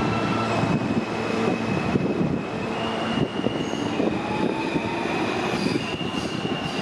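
R160A/R160B subway train running on the rails: a steady rumble and clatter with thin, high wheel squeal tones that shift in pitch.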